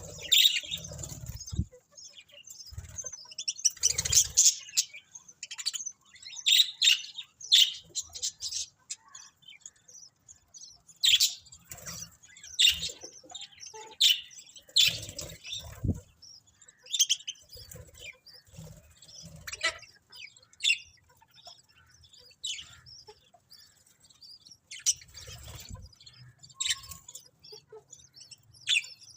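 Budgerigars chirping: short, sharp, high chirps in quick irregular clusters, with a few soft low thumps in between.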